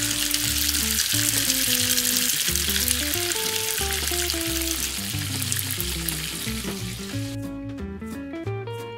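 Food sizzling in hot oil in a miniature pan, a dense steady hiss that cuts off suddenly about seven seconds in, over light plucked-string background music.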